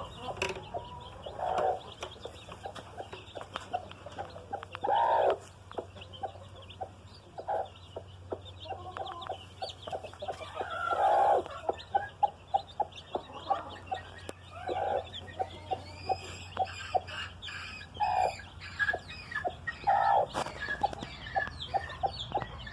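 Hen clucking in quick runs of short clucks, several a second, with a louder drawn-out call every few seconds, over the high peeping of newly hatched chicks.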